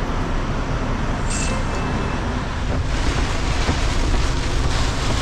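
Steady low rumble of a semi truck with a hiss of wind and rain over it. The hiss grows louder and brighter about three seconds in as the storm comes through.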